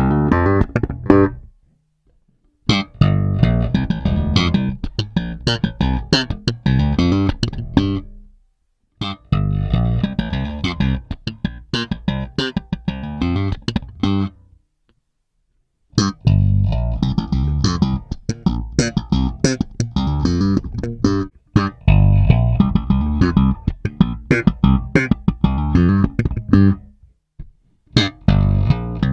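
Five-string Music Man StingRay-style bass with two humbuckers, played slap style and recorded direct with flat EQ: sharp thumbed and popped notes in four repeated phrases, with short silent breaks between them.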